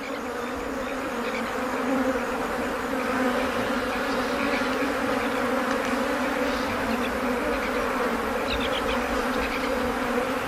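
A swarm of flies buzzing in a steady drone, swelling over the first couple of seconds and then holding even.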